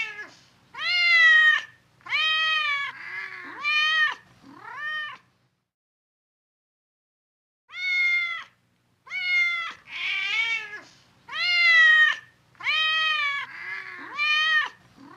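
Cat meowing over and over, a run of drawn-out meows that rise and fall in pitch, with a pause of about two seconds in the middle before the meowing starts again.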